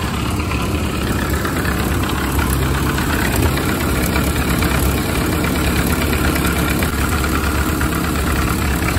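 Ford Model A's four-cylinder flathead engine idling steadily while it warms up.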